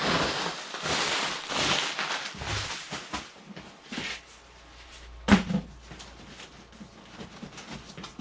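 Cardboard packaging being pulled off and handled, scraping and rustling for the first few seconds, then scattered light knocks with one sharp knock about five seconds in.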